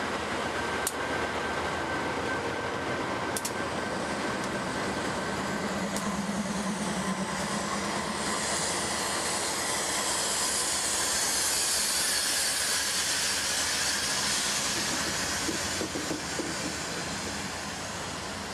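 Diesel freight locomotives rolling past at close range, with the steady rumble and rail noise of the passing units. A few sharp clicks come in the first few seconds, and a high hiss builds to its loudest about halfway through, then eases toward the end.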